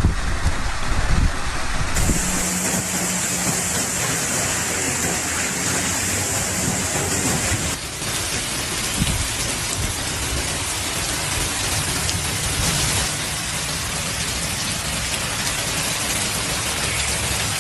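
Heavy rain pouring down: a loud, steady hiss with no let-up, changing character abruptly about two and eight seconds in. There is some low rumbling in the first couple of seconds.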